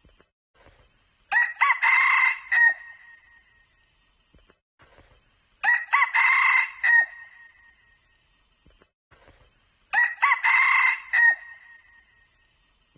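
Red junglefowl cock crowing three times at even intervals about four seconds apart, each crow a short clear call ending in a held high note.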